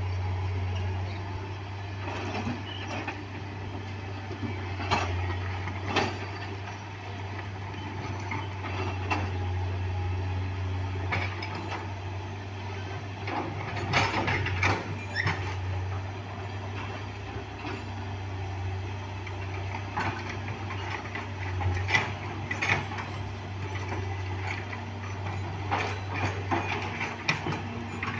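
Excavator at roadwork: a steady low engine hum with irregular metallic clanks and knocks.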